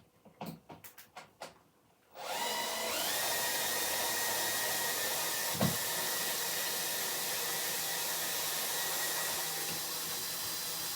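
An electric motor switches on about two seconds in, winds up briefly, and runs steadily with a hum and rushing noise, with a single knock partway through. Before it starts there are only a few faint taps.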